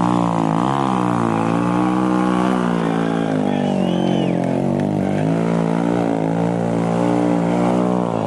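Small single-cylinder mini bike engine revving hard, its pitch dipping briefly about a second in and then held high and fairly steady.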